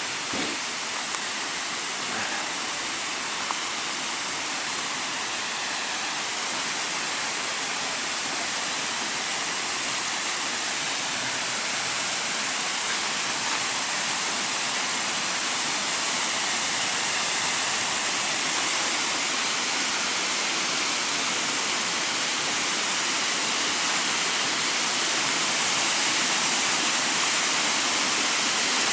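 Waterfall rushing in a steady, even roar of water that grows a little louder toward the end.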